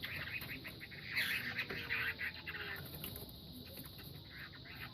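Two hwamei (Chinese melodious laughingthrush) fighting birds scuffling, with rapid irregular chirps and rustling that grow louder about a second in.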